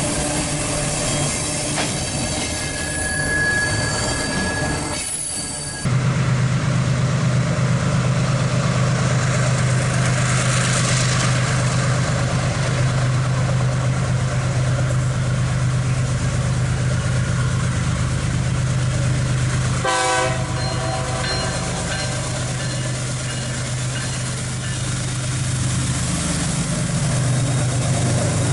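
Freight train wheels squealing on the track. After a sudden cut about six seconds in, a diesel locomotive's engine runs with a steady low hum, and a short horn blast sounds about twenty seconds in.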